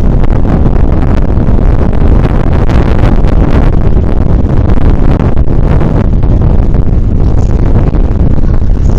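Heavy wind buffeting the microphone in loud, uneven gusts, over the running of an E217-series electric commuter train.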